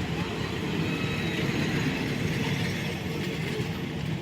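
Train running on the rails: a steady, unbroken rumble.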